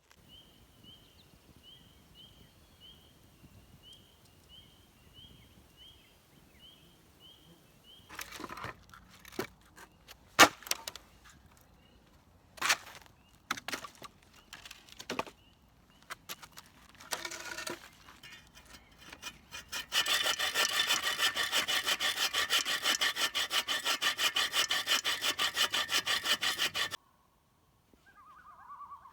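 Fast, even rasping strokes of a saw cutting wood, loud for about seven seconds in the second half and then stopping abruptly. They follow a stretch of scattered knocks and clicks. Faint, evenly repeated high chirps run through the first few seconds.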